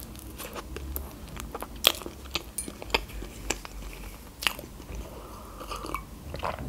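Close-miked mouth sounds of chewing a bite of soft sponge cake: irregular wet clicks and smacks. Near the end comes a sip from a mug.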